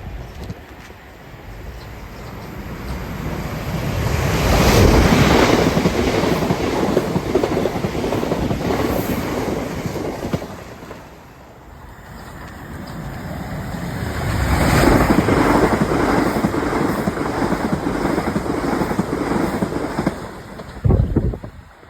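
Rail noise of a train passing at speed, a loud rushing that swells up, dips about halfway and swells up again, with wind buffeting the microphone. A short loud knock comes near the end.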